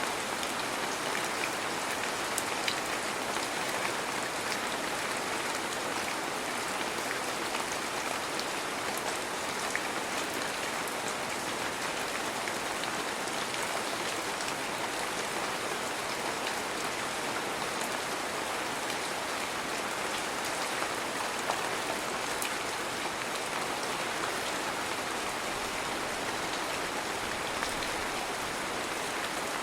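Heavy rain falling steadily, a dense even hiss with scattered small drop ticks.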